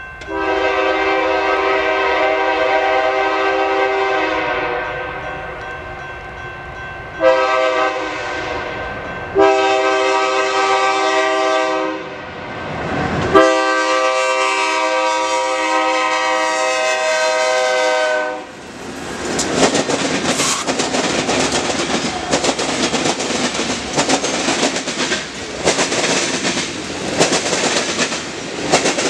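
Diesel locomotive's multi-chime horn sounding four blasts for a grade crossing, the last one long. Then, a little past the middle, the freight train passes, its wheels clattering and clacking over the rails and crossing as the cars roll by.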